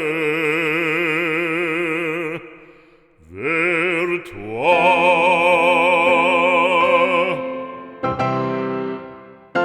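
Operatic voice holding long notes with a wide vibrato, sliding up into a final held note, in the closing of a French sacred song. Near the end, piano chords are struck twice and ring away.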